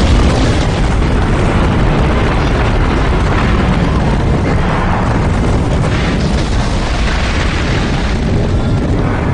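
Film sound of an airliner crash: a loud, continuous rumble of explosions and burning wreckage, easing off slightly toward the end, with music mixed underneath.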